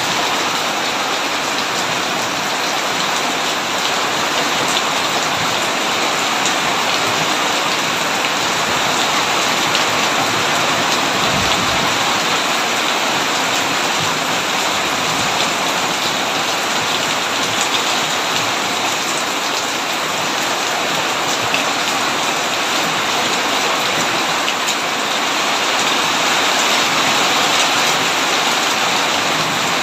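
Heavy rain pouring steadily on a tin roof.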